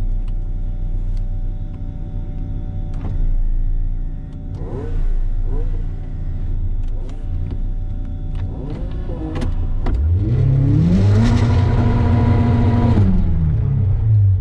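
Turbocharged Mazda MX-5's four-cylinder engine idling, heard inside the cabin, blipped briefly a few times, then revved up about ten seconds in and held at high revs for about three seconds before dropping back, with the car still stationary.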